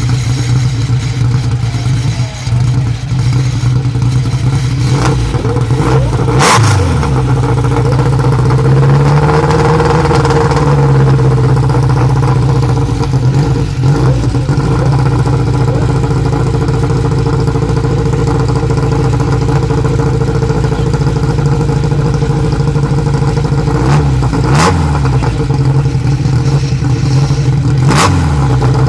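Abarth 2000 Sport Tipo SE 010 race car's two-litre four-cylinder engine running at a steady idle. It is blipped sharply about six seconds in and twice near the end, and the revs swell more slowly about ten seconds in.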